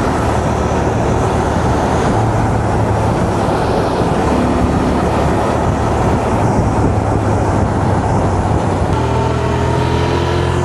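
Honda Transalp motorcycle under way: a steady engine note buried in heavy wind and road noise, with the engine pitch starting to climb slowly near the end as it accelerates.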